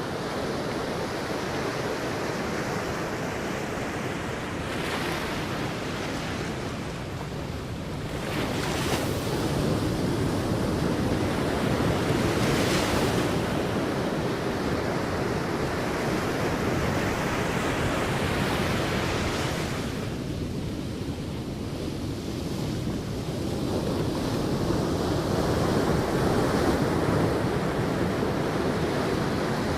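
Sea waves breaking and washing up a beach, a steady rushing surf that swells and eases over several seconds, with hissing surges as waves break, and wind on the microphone.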